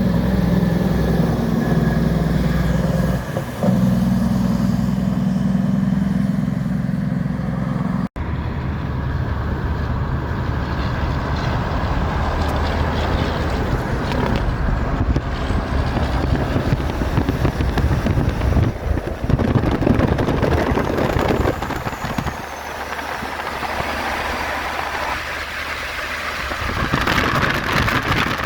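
Heavy trucks and road traffic driving by, with steady engine noise. The sound breaks off sharply about eight seconds in and continues as rougher, noisier traffic.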